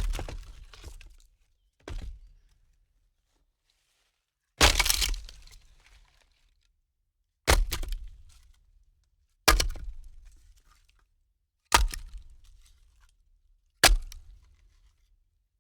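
A series of sharp breaking impacts, seven in all about two seconds apart, each followed by a short crackling fade; the second is weaker and the third lasts longest.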